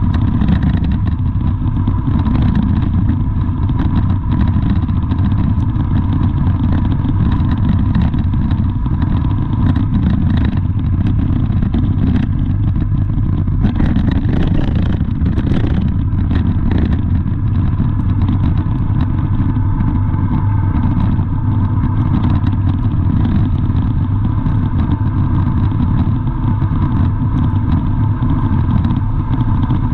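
Steady low rumble of a vehicle running, with a faint steady whine over it and a few short clattering knocks around the middle.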